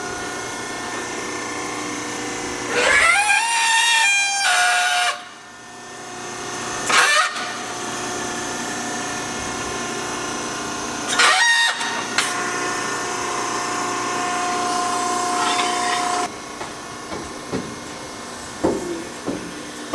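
Shop power tool running with a steady whine, spinning up in pitch twice, about three seconds in and again about eleven seconds in, then cutting off sharply near the end.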